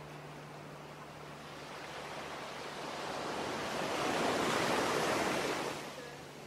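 Ocean waves: one wave swelling for a few seconds and then washing out, over a faint steady low hum.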